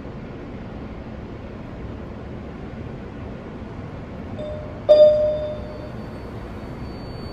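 Steady rumble of a New York subway train, with a single loud electronic chime about five seconds in that rings and fades over about a second; a faint high whine sets in after it.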